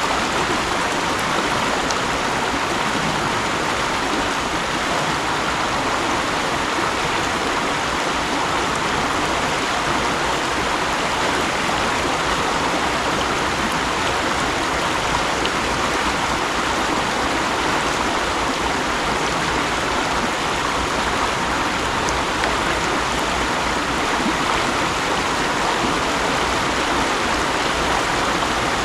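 Mountain stream rushing steadily over rocks, an even rush of water without pause.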